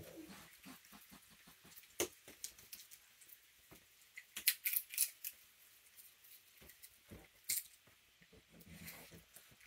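Raccoons and skunks chewing peanuts: irregular small crunches and cracks, with a quick run of sharper cracks about halfway through.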